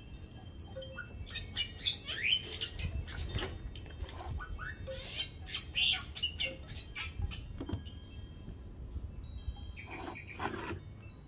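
Birds chirping in short rising calls, mixed with the short scraping clicks of a small knife trimming the fibrous husk of a coconut bonsai.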